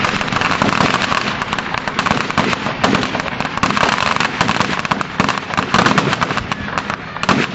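Fireworks display going off: a dense, continuous run of rapid crackles and bangs.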